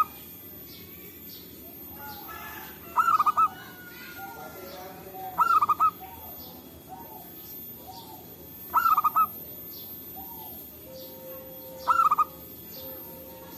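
Zebra dove (perkutut) calling: a short, quick run of cooing notes, repeated four times about three seconds apart, with faint chirps from other birds behind it.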